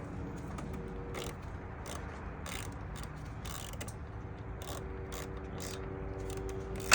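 Ratchet wrench with an extension and 5.5 mm socket clicking in short, irregular strokes as it loosens the hose clamp on a 2012 Honda Civic's air box. A louder knock comes at the very end.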